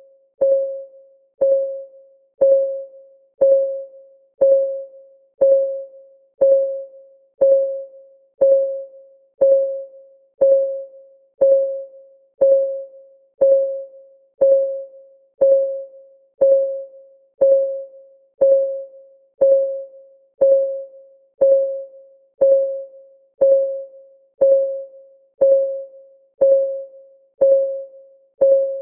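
Countdown timer's clock-ticking sound effect: one tick a second, each a short pitched tock that rings briefly and fades, perfectly regular.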